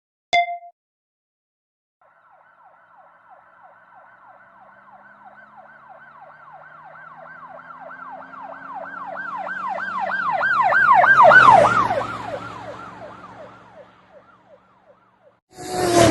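Emergency vehicle driving past with its siren on a fast yelp, the pitch sweeping up and down about three times a second over an engine. It grows louder, peaks about two-thirds of the way through, and the engine drops in pitch as it passes and fades away. A brief tone sounds at the very start and a short new sound begins near the end.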